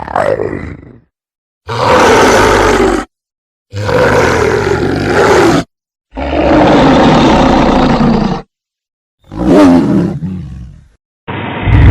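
A series of loud, drawn-out roars, a sound-effect rendition of the Maip macrothorax dinosaur's call. About four full roars, each one to two and a half seconds long and separated by sudden dead silence, with the end of one just at the start and another beginning near the end.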